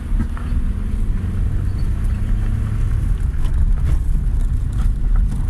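Car engine and road rumble heard from inside a moving vehicle: a steady low drone with a few light rattles and knocks.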